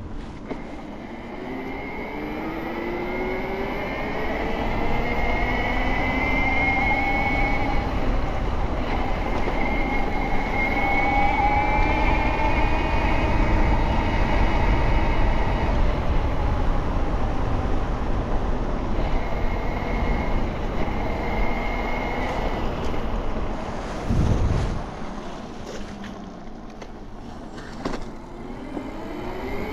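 Bafang BBSHD mid-drive e-bike motor running on 72 volts under load. Its whine rises in pitch as the bike accelerates over the first several seconds, then holds steady, with wind rumble on the microphone. A low thump comes about 24 seconds in, the whine drops away for a few seconds, then rises again near the end.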